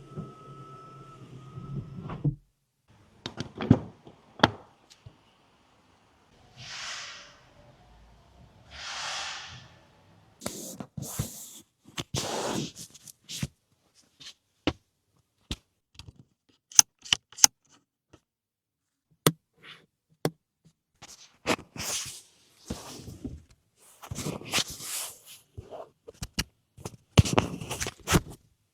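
Car doors and fittings being handled: a series of sharp clicks, knocks and thunks with short scrapes. Early on there is a steady hum that cuts off after about two seconds, followed by two soft rushing swishes.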